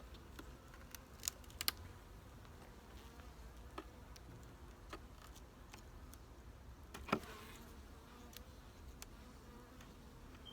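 Honeybees buzzing faintly in an opened hive, with a few sharp clicks and knocks from handling the hive, the loudest about seven seconds in.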